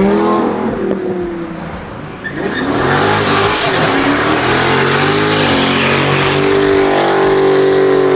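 High-performance car engine revving hard: a rev falls away in the first second, then after a short lull the engine climbs again and holds at high revs, loud and steady.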